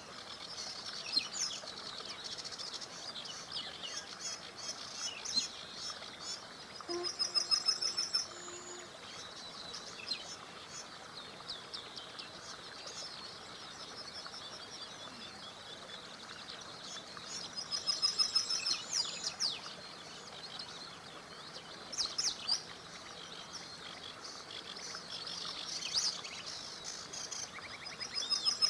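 Several songbirds chirping and singing over the steady rush of a small river, with two bursts of fast trilled notes, about seven and eighteen seconds in.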